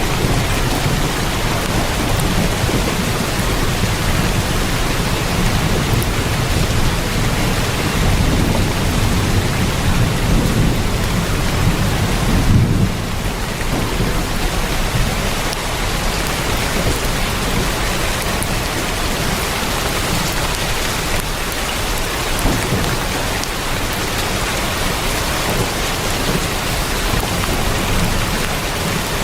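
Heavy rain drumming steadily on a tin roof. A deep rumble lies under it through about the first half, swelling to its loudest about 12 seconds in and then easing off.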